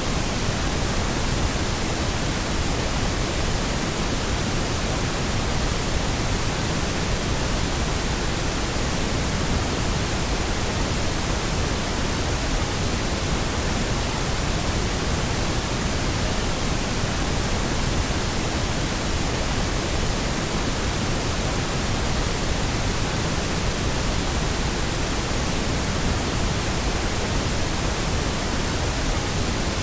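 Steady pink noise: a constant, even hiss across all pitches, unchanging throughout.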